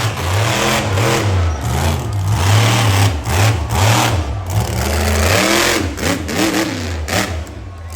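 Monster truck engine revving hard in repeated bursts, its pitch rising and falling about once a second, with the throttle blipped on and off.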